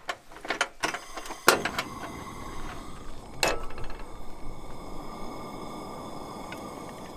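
Sharp clicks and clatter of camp cooking gear, then a steady rushing hiss from about a second and a half in that stops abruptly at the end.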